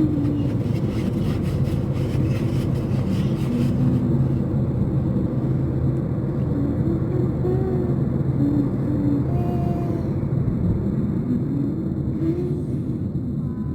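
Steady vehicle rumble with a low hum, with a few faint wavering tones over it.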